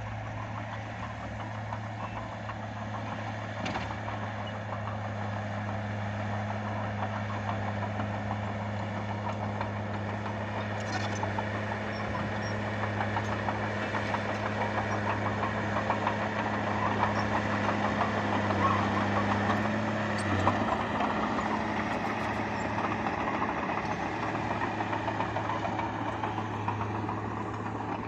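Bulldozer's diesel engine running steadily under a dense mechanical rattle, growing louder toward the middle, with a brief dip in engine pitch about twenty seconds in.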